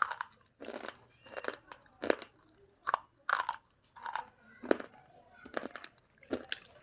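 Slate pencil being bitten and chewed close to the microphone: a run of about ten sharp, dry crunches, roughly one every two-thirds of a second.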